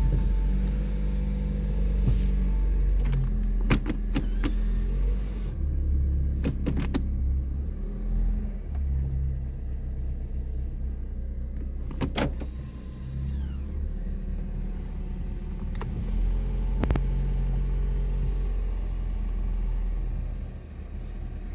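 2023 Toyota Corolla LE's four-cylinder engine idling steadily just after a cold start. A few sharp clicks or knocks are heard over it.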